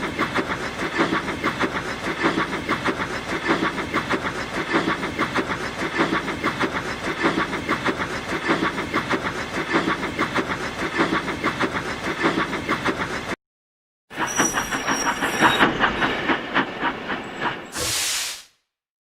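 Train wheels running over rail joints: a steady, regular clickety-clack that cuts off about 13 seconds in. After a short gap, a second, busier stretch of wheel clatter ends with a brief hiss of steam.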